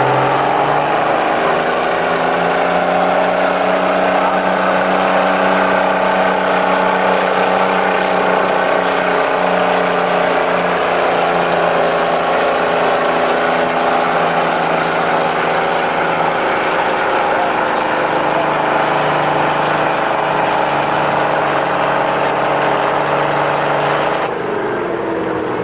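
Farm tractor engine at full throttle under heavy load during a pull, its pitch climbing in the first couple of seconds, then holding high and fairly steady, and falling sharply near the end as it throttles back.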